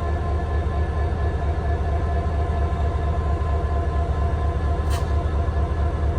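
EMD SD40-2 locomotive's turbocharged 16-cylinder two-stroke diesel running hard under heavy load, a steady turbocharger whine over a pulsing low rumble, as it struggles to get a stalled, overweight train moving.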